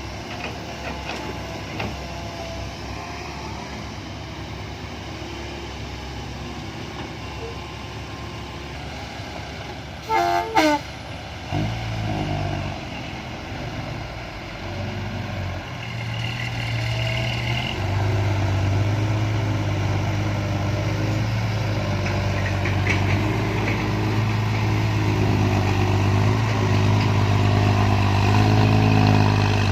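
Six-wheel dump truck's 195-horsepower diesel engine running, working harder and louder from about twelve seconds in. A brief high-pitched sound comes about ten seconds in.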